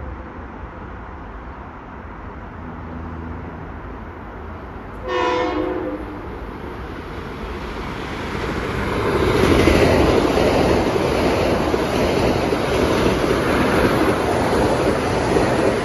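A Metro-North M8 electric multiple-unit train sounds one short horn blast about five seconds in as it approaches. Its wheels and running gear then grow loud as the cars run past close by on the rails.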